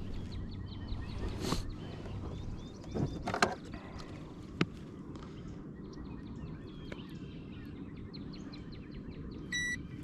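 Birds chirping and singing over a low outdoor rumble, with a few sharp knocks of handling and, near the end, a short electronic beep.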